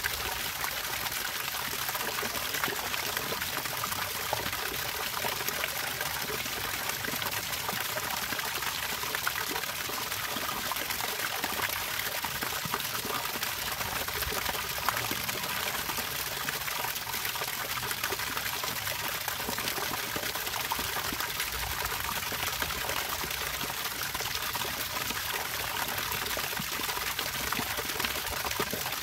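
Running water trickling steadily, an even hiss with many small splashes.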